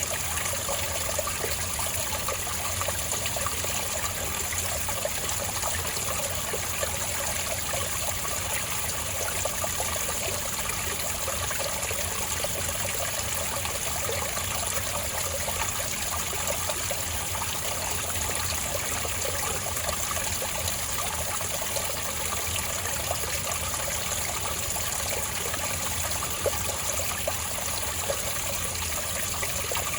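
Spring water trickling and flowing steadily, an even splashing that does not let up.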